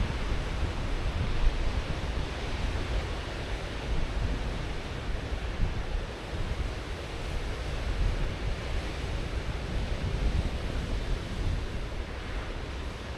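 Ocean surf breaking on a beach, heard as a continuous rushing wash that swells and eases gently.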